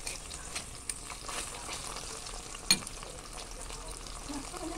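Pork liver slices sizzling in oil in a metal wok, with small clicks of tongs and a fork working the pan and one sharp metal clack a little past halfway.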